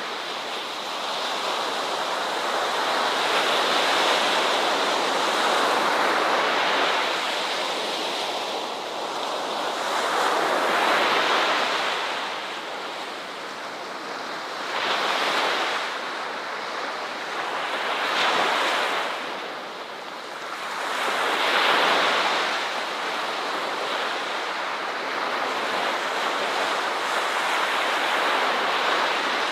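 Ocean surf breaking on a beach: a continuous wash of water that swells and falls back every few seconds as each wave comes in.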